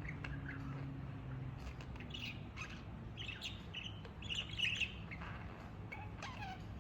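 Pet budgerigar chattering and warbling in quick, irregular chirps, busiest around the middle.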